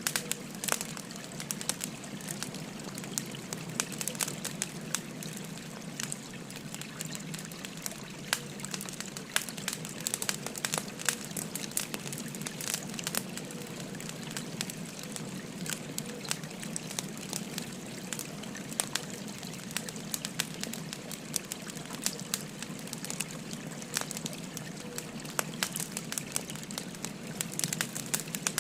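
Wood fire crackling, with frequent sharp pops and snaps scattered through, over the steady rush of a babbling river.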